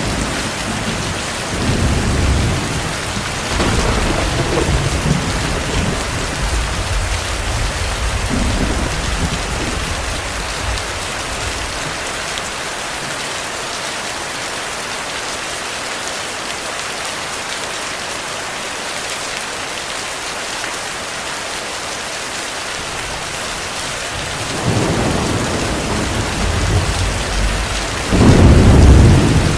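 Heavy rain falling steadily, with rolling thunder. Rumbles come through the first ten seconds or so, then there is a lull where only the rain is heard. Thunder builds again about three-quarters of the way through and is loudest near the end.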